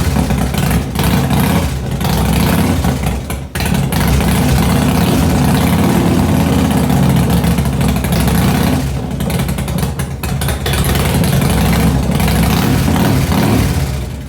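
Harley-Davidson Dyna's new V-twin engine running on its first start, loud and steady, with a brief dip about three and a half seconds in and a few smaller wavers later.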